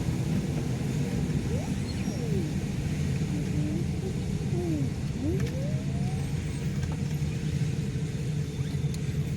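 A car driving, heard as a steady low rumble of engine and road noise, with a few faint short gliding tones now and then.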